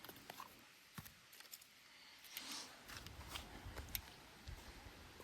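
Faint handling noise: scattered small clicks and short rustles as a firework box and its plastic wrapping are handled.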